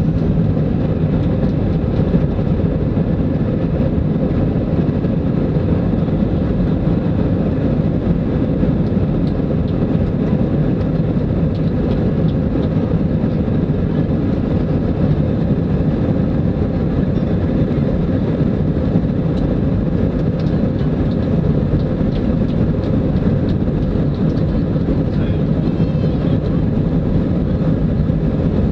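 Boeing 777 jet engines at takeoff power: a loud, steady, heavy rumble.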